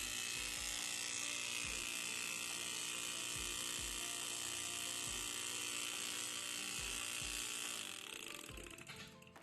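Repaired hermetic refrigerator compressor running with a steady hum, a bit noisy because its piston pin is badly worn. The sound fades out near the end.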